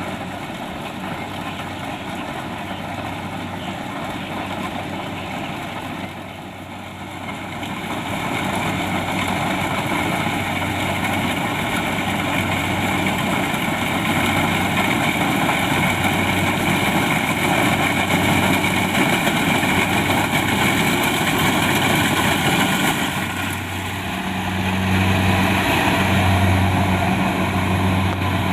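Kubota DC-70 Plus combine harvester running, a steady diesel engine hum over a mechanical whir. It grows louder about a quarter of the way in, dips briefly near the end, then comes back with a pulsing low hum.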